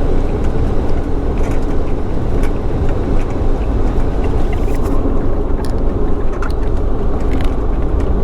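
Steady rumble of a moving bus heard from inside the cabin: engine and tyre road noise, with occasional small rattles.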